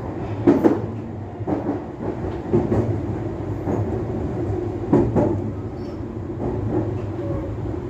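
Meitetsu electric train heard from inside, a steady low running hum with wheels clicking over rail joints every second or two, some clicks in pairs, as it pulls into a station.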